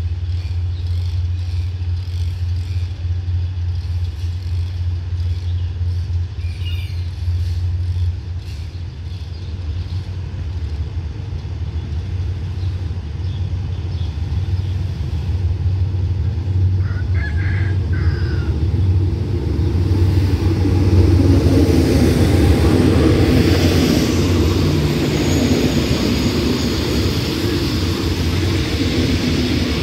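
Diesel-hauled passenger train pulling into a station. A steady low diesel hum gives way, about two-thirds of the way in, to a louder rolling noise as the locomotive and coaches pass, wheels running on the rails.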